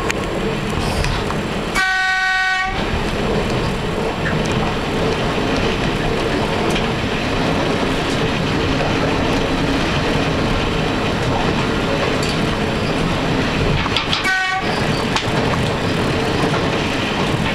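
X'Trapolis electric train running, heard from inside the driver's cab as steady running noise. Its horn sounds twice: once about two seconds in for about a second, and again, shorter, about fourteen seconds in, as a warning for the level crossing ahead.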